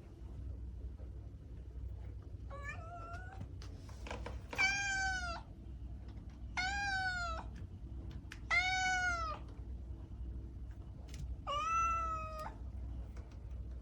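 Domestic cat meowing five times, about two seconds apart. Each meow lasts under a second and rises then falls in pitch; the first is fainter than the rest.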